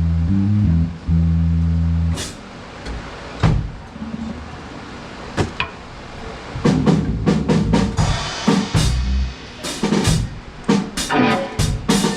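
Electric bass holding low notes for the first two seconds, then a drum kit during a soundcheck: a few single hits spaced out, then from about halfway a quickening run of kick and snare strokes with cymbal.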